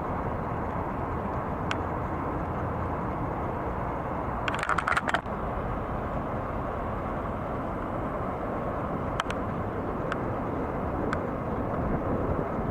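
Steady outdoor rumble of distant engine noise, with a short cluster of sharp clicks about a third of the way in and a few single ticks.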